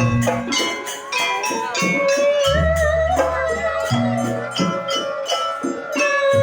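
Live jaranan accompaniment music: a held melody on a wind instrument that bends in pitch, over drums and a quick, steady clatter of metal percussion.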